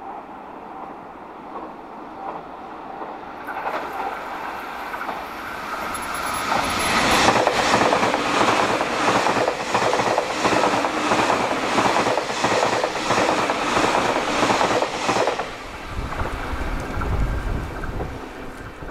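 Train passing at over 100 km/h. A rush builds as it approaches, then wheels clack steadily over rail joints for about eight seconds. The sound cuts off sharply as the last car goes by, leaving a low rumble for a couple of seconds.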